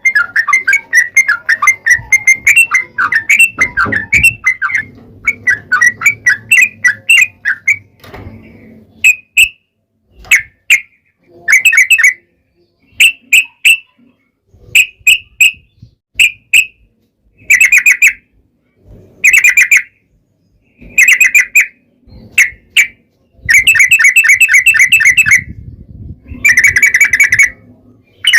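Yellow-vented bulbul (trucukan) singing loudly: a fast, unbroken run of chattering whistled notes for about eight seconds, then short bursts of song with pauses between them, the bursts growing longer near the end.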